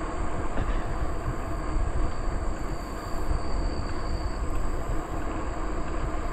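Bicycle tyres rolling on a trail with wind on the microphone: a steady, even rumble. A thin, steady high drone of insects sounds above it and fades about two-thirds of the way through.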